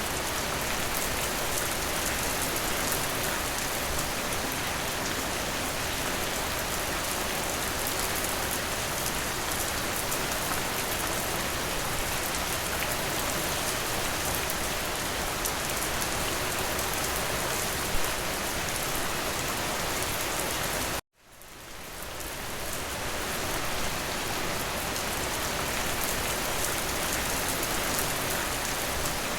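Steady rain falling on a window, an even hiss with scattered drop ticks. About two-thirds of the way through it cuts out abruptly to silence for a split second, then fades back in over a couple of seconds.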